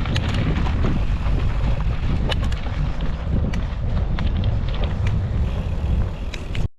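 Wind buffeting the microphone over the low rumble of a mountain bike rolling along a dirt trail, with scattered small clicks and rattles from the bike. The sound cuts out abruptly near the end.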